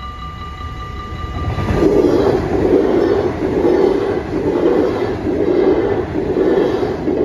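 NS VIRM double-deck electric train passing over a level crossing, its wheels on the rails pulsing about once a second; it comes in about one and a half seconds in and is loudest from two seconds on. Before it arrives the crossing's warning bells ring with a steady tone, and the train then drowns them out.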